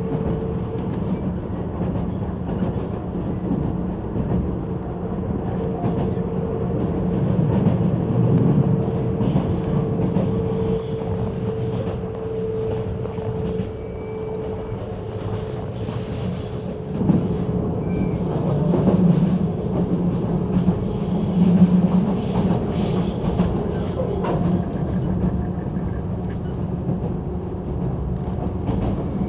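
JR 185 series electric train running, heard from inside the carriage: a steady rumble of wheels and running gear with a steady hum that fades out about halfway. A few louder knocks come in the second half.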